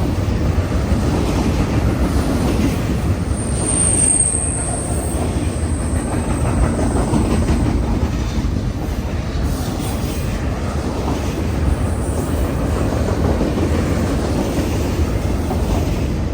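Freight cars of a long CN freight train rolling steadily past, with a rumble and wheel clatter. About three seconds in a thin, high wheel squeal rises and then fades out over the next few seconds.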